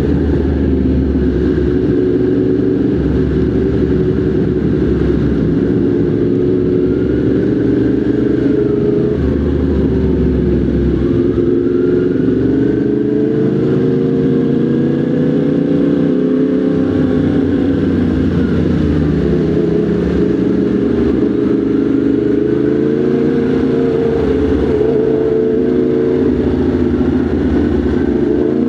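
Motorcycle engine running at low, fairly steady revs in slow traffic, its pitch drifting gently up and down as the throttle is eased on and off.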